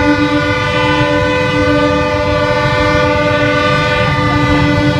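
Ship's horn sounding one long, unbroken blast at a ship launch, several steady pitches held together.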